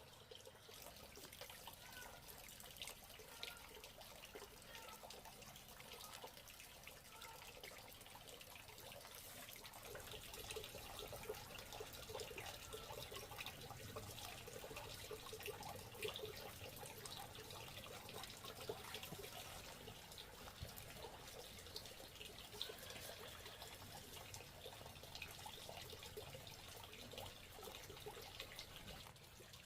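Faint trickling and splashing water, a dense patter of small drips and splashes, a little louder after about ten seconds.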